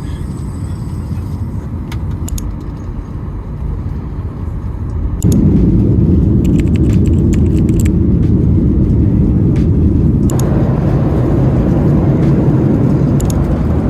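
Airliner cabin noise: a steady low rumble of jet engines and rushing air. It jumps suddenly louder about five seconds in and grows fuller again around ten seconds in, with a few faint ticks above it.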